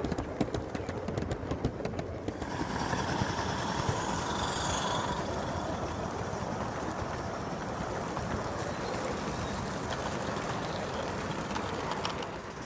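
Garden-scale model train running along the track, with rapid clicking for the first two seconds, then a steadier running sound after an abrupt change.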